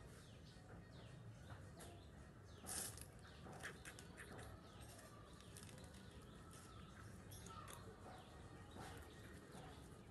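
Faint, scattered bird chirps over low background noise, with one short click about three seconds in.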